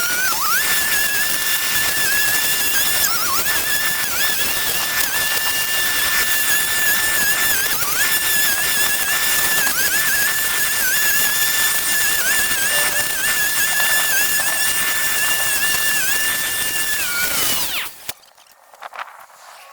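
A power tool's small motor running at high speed with a steady high whine, its pitch dipping briefly now and then as if it is loaded. Near the end it winds down and stops.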